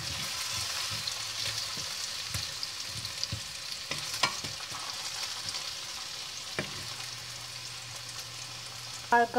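Potato chunks sizzling in oil in a nonstick sauté pan, with the scrape and tap of a wooden spatula stirring them now and then.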